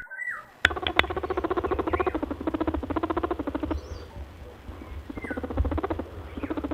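Rabbit calling in fast, stuttering, purr-like pulses, in three bursts: a long one of about three seconds, a short one, then another starting near the end.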